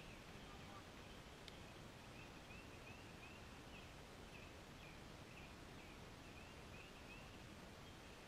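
Faint outdoor quiet: a small bird chirping in a quick series of short high notes, about three a second, over a low steady hiss.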